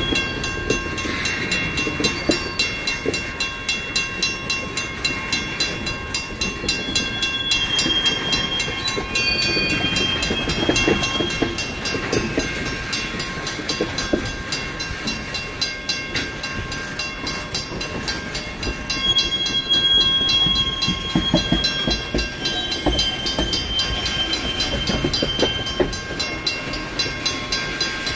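Freight train of tank cars and covered hoppers rolling through a grade crossing, its wheels clacking over the rails with occasional brief high squeals, while the crossing's WCH mechanical bell rings steadily.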